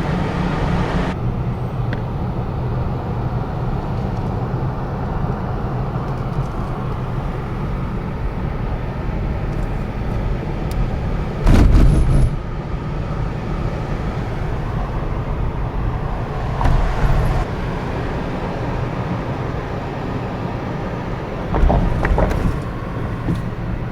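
Steady road and engine noise of a car being driven, with three brief louder swells: one about halfway through, one about two-thirds of the way in and one near the end.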